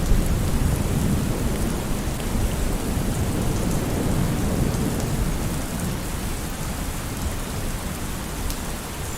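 Steady rain falling, under a low rumble of rolling thunder that slowly fades away.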